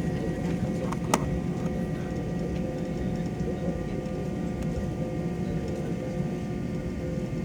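Airliner cabin noise: the jet engines and air system make a steady hum with constant tones, and there is one sharp click about a second in.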